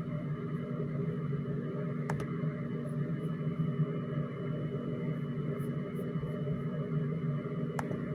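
A steady low hum with a thin high whine over it, broken by two sharp clicks about six seconds apart.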